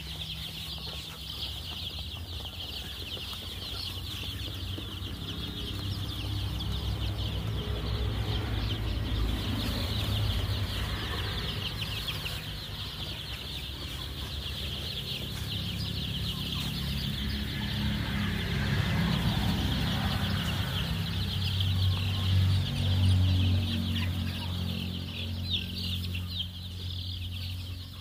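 A flock of six-day-old Kaveri chicks peeping constantly, many high chirps overlapping into a continuous chorus, over a steady low hum.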